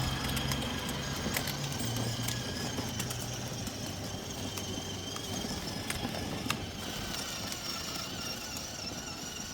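Kids' 12V electric ride-on toy truck running, its small motors giving a faint steady whine, with a low hum that drops away after a few seconds and occasional small clicks.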